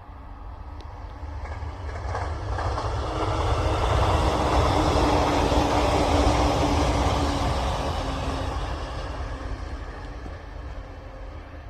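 E259 series electric train passing at speed: the running noise builds, is loudest about four to seven seconds in, and fades away.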